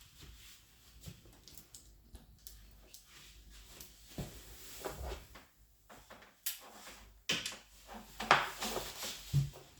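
Irregular knocks, clicks and rustles of objects being handled, with the loudest knocks and a short low thump in the second half.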